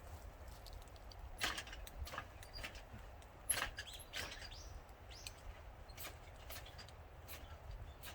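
Magnesium fire-starter rod being scraped, about ten short rasping strokes at irregular intervals, to throw sparks onto hemp-twine tinder, with a steady low rumble underneath.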